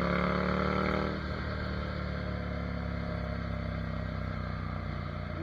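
Ducati Monster 797's air-cooled L-twin engine running under way, heard from the bike: its note eases down a little in the first second, then holds steady.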